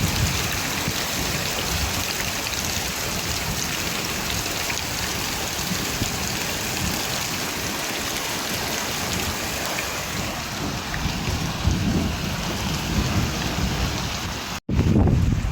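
Steady heavy rain with low rumbling thunder swelling about twelve seconds in. Near the end the sound cuts out for an instant, at a splice to another recording.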